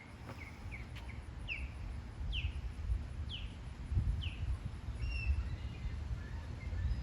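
A bird calling: a series of short chirps, each sliding down in pitch, about one a second, then a few higher notes near the end, over a low rumble.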